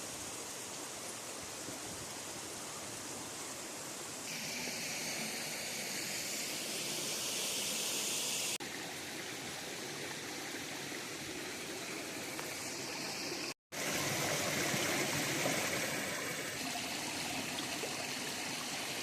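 River water flowing over rocks, a steady rush that changes abruptly several times between shots, with a brief dropout to silence near the middle.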